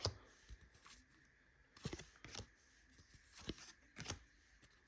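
Trading cards being handled and flipped through by hand: about five faint, short card-against-card slaps and slides, spaced irregularly.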